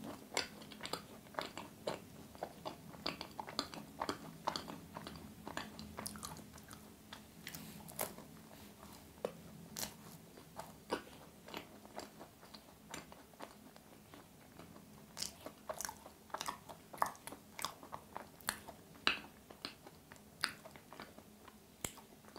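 A person chewing a thick-filled macaron close to the microphone: small irregular crunches and crackles of the shell, with soft mouth sounds.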